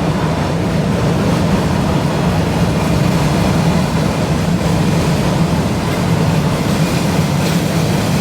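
Train passing at the level crossing: a loud, steady low rumble of the diesel locomotive and rolling wagons that holds without letting up.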